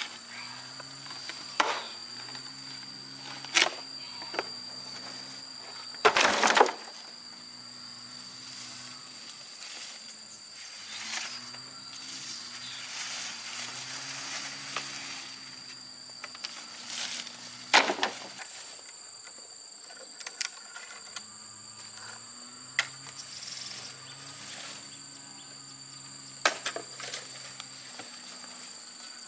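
Steady high-pitched insect chirring with a low wavering hum beneath, broken by occasional sharp knocks and clatter, a short cluster of them about six seconds in.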